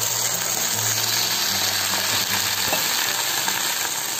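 Shallots, tomato and cashew nuts sizzling steadily in a hot pan.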